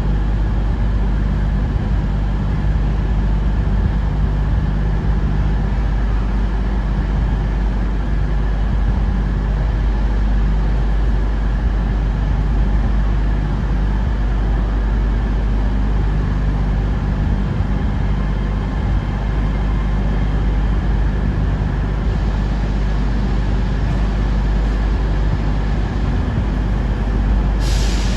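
A train standing at a platform runs with a steady low hum and rumble. A brief hiss comes near the end.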